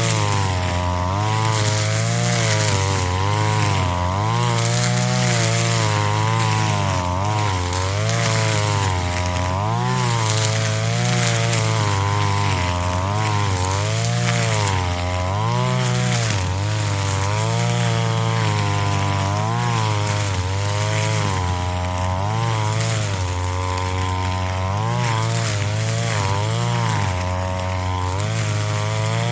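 Two-stroke brush cutter engine running near full throttle while cutting grass, its pitch dipping and recovering every second or two as the blade takes the load.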